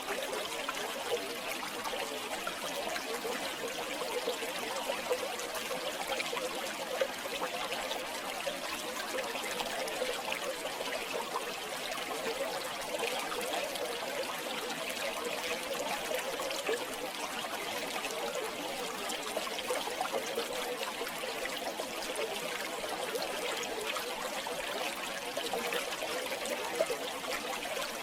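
River water flowing steadily, with occasional brief splashes.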